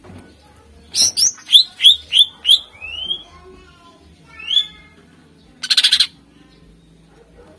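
Cucak ijo (green leafbird) singing: a run of sharp, loud notes that each sweep quickly upward, then a single longer rising slur. Near the end comes a brief, harsh rapid rattle.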